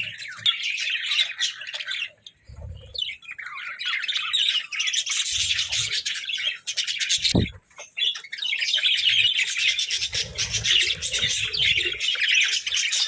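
A flock of budgerigars chattering and chirping in a rapid, continuous warble, with two brief lulls.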